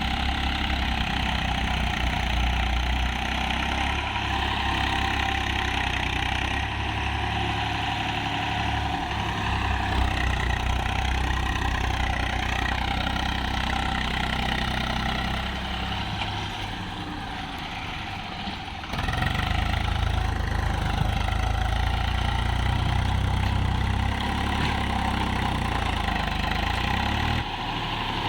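Tractor diesel engine running steadily while pulling a trolley loaded with sand. It eases off somewhat in the middle, then comes back louder suddenly about two-thirds of the way in.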